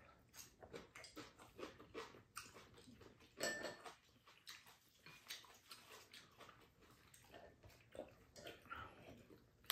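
Faint chewing and mouth sounds of people eating: a string of short, soft smacks and clicks, one a little louder about three and a half seconds in.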